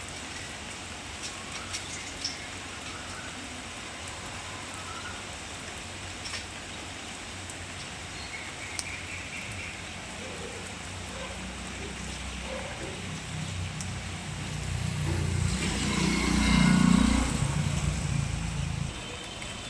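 Steady rain falling, with a motor vehicle passing by: a low engine and tyre rumble builds from about halfway in, is loudest a few seconds before the end, then fades.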